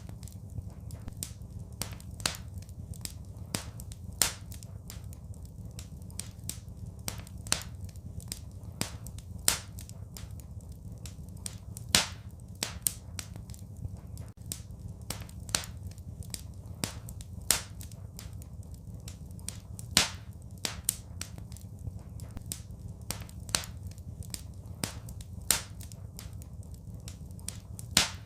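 Wood fire crackling in a fireplace: irregular sharp pops and snaps, a few much louder ones about twelve, seventeen and twenty seconds in, over a steady low rumble.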